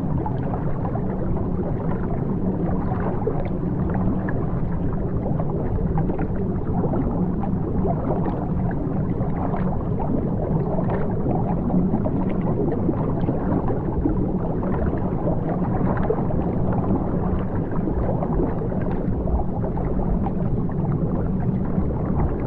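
Aquarium water bubbling and gurgling steadily, with many small bubble pops over a low, even hum.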